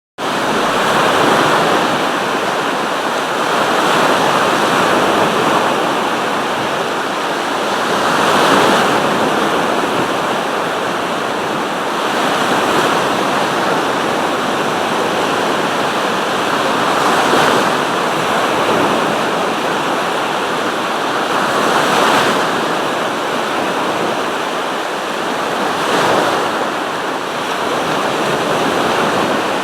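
Sea surf: waves breaking and washing ashore in a continuous rush, swelling with each breaker every four seconds or so.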